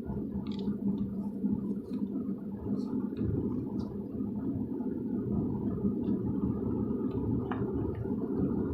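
Car cabin noise while driving: a steady low rumble of tyres and engine, with a few faint ticks.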